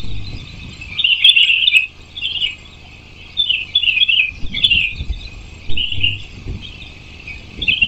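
Birds chirping in quick, irregular bursts, with a few short, soft low rumbles underneath.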